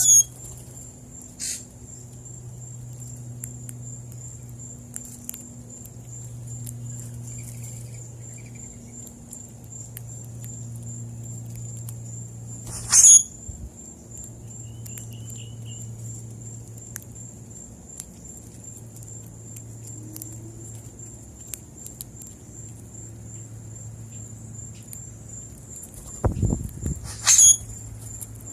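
A steady, high insect trill runs throughout, over a low hum. A few short, loud, sharp sounds break in about halfway through and again near the end.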